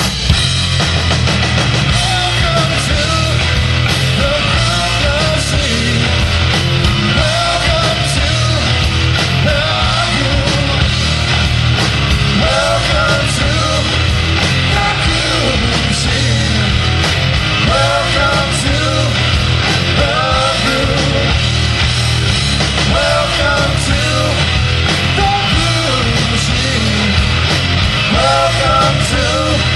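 A rock band playing loud, punk-styled music with distorted guitars, bass and drums, with a wavering melodic line over the top and no sung words.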